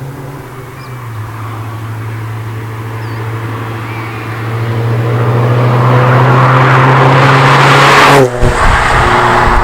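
MG TF's four-cylinder engine through a TT aftermarket exhaust, pulling under load and growing louder over several seconds. About eight seconds in there is a brief sharp drop and fall in pitch, like a lift-off for a gear change, then it carries on.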